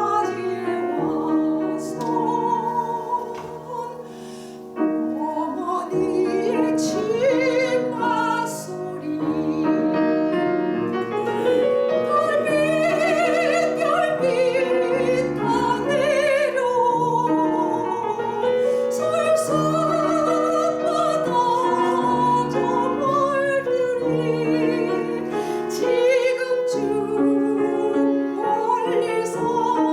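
Soprano singing a Korean art song with piano accompaniment, the voice in a wide vibrato; the music drops briefly quiet about four seconds in, then the singing resumes.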